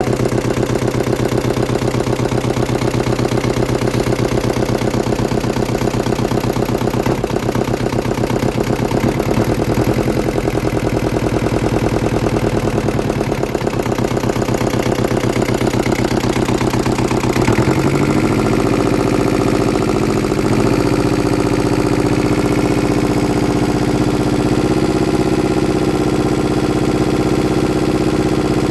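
Yanmar 2GM two-cylinder marine diesel engine running steadily at a low speed, then throttled up about two-thirds of the way through to a faster steady speed, with a couple of small further rises.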